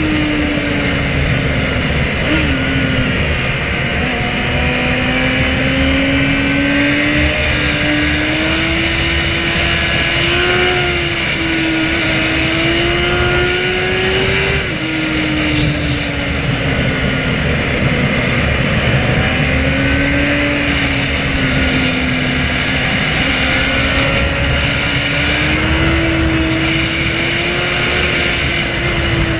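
Inline-four sport bike engine under way: its pitch climbs steadily and drops sharply at a gear change about halfway through, then falls as the throttle eases and rises again near the end, over a steady rushing noise.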